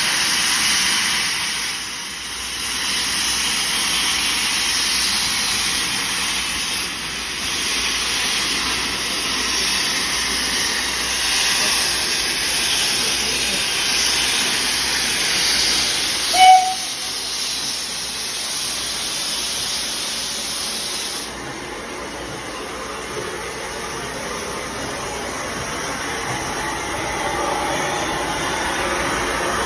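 Steam locomotive venting steam with a steady loud hiss that drops away about two-thirds of the way through. Just before that, there is one short, sharp tone.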